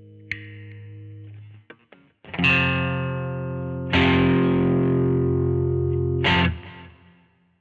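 Squier Vintage Modified Jaguar electric guitar through an amp with some distortion: a note dies away, then chords are struck about two and a half and four seconds in and left to ring, until a last sharp stroke and the strings are muted near the end.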